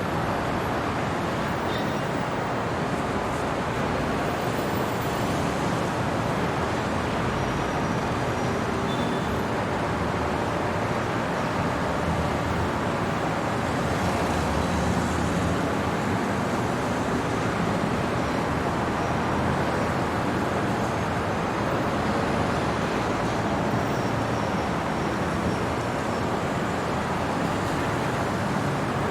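Steady city traffic noise: an even, unbroken wash of road noise with no single vehicle standing out.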